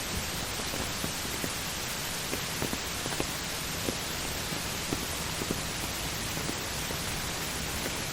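Heavy rain falling as a steady hiss, with individual drops ticking irregularly, about two a second, on a nearby surface.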